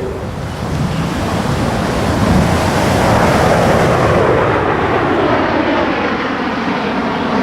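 Jet noise from USAF Thunderbirds F-16 Fighting Falcons passing, a loud rushing roar that swells to a peak about three seconds in and then slowly eases off.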